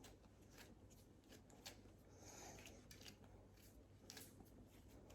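Faint, soft rubbing and patting of hands kneading bread dough, a few strokes a second.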